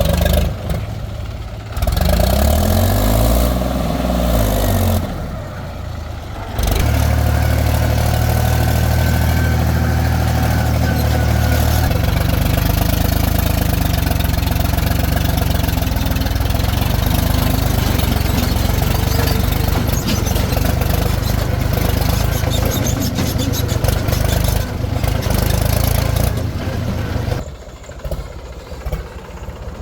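Heavy diesel engine of a backhoe loader or tractor revving up and back down, then running steadily at a low, even pitch, dropping away near the end.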